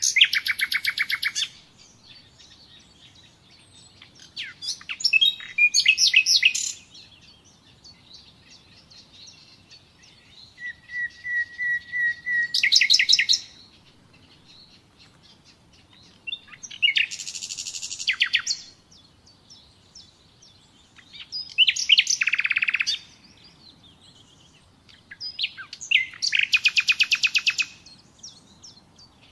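Common nightingale singing: about six separate phrases a few seconds apart, each a fast run of rapidly repeated notes, one of them opening with a long steady whistle that swells in loudness before breaking into a rapid trill.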